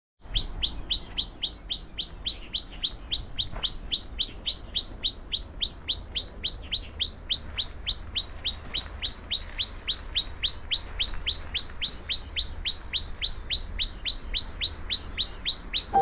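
A bird calling a long, very regular series of short, downward-sliding chirps, about four a second, with a faint low rumble underneath.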